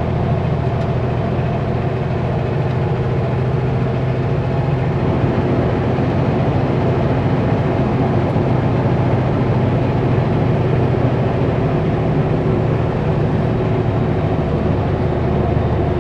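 Kenworth W900L semi truck's diesel engine running steadily on the highway, a constant drone over tyre and road noise.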